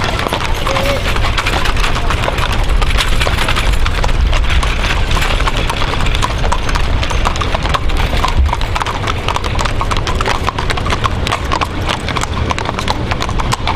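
Hooves of several wagon-train horse teams clip-clopping continuously as they pass, a dense overlapping patter of hoofbeats over a steady low rumble.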